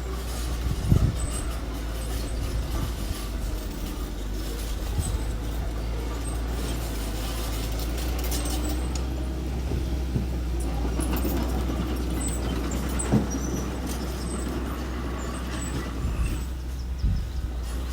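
Engine of a small earthmoving machine running steadily, with a few knocks, one about a second in and another near thirteen seconds in.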